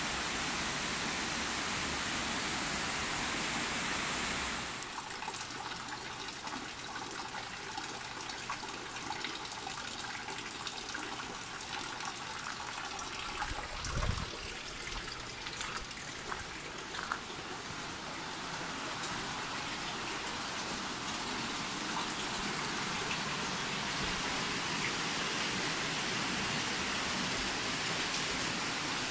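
Steady rushing of a waterfall and stream. About five seconds in, the sound becomes quieter and thinner, and there is a brief low thump about halfway through.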